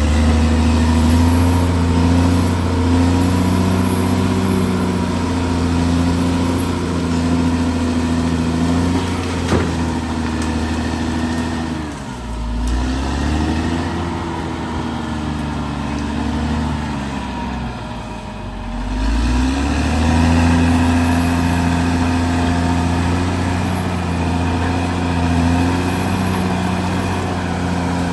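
Caterpillar D6R XL bulldozer's diesel engine running steadily, its pitch and loudness dropping and then climbing back twice, about twelve and eighteen seconds in.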